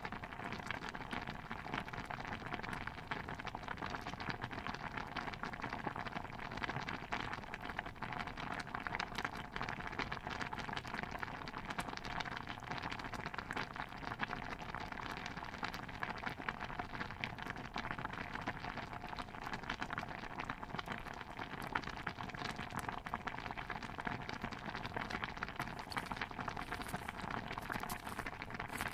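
Stew bubbling in a pot: a steady, dense patter of small pops and crackles, with a few brief sharper hissy sounds near the end.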